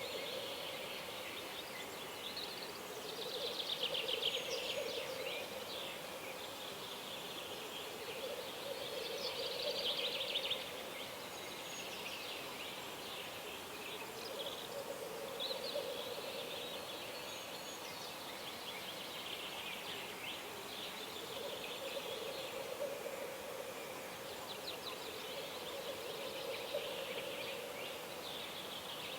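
Songbirds singing in a dawn chorus, with trilling songs that peak about 4 and 10 seconds in, over a lower warbling call that comes in long stretches of several seconds.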